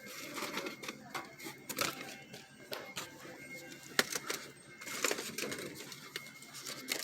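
Faint background music in a store, with scattered short clicks and knocks of things being handled.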